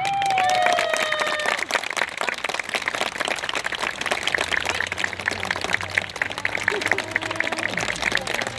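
Crowd applauding, with a few voices calling out at the start as the clapping begins.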